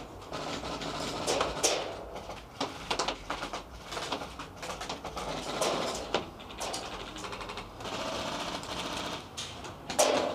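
Scattered sharp clicks and snaps of airsoft gunfire and BBs striking, some in quick runs, echoing in a small room.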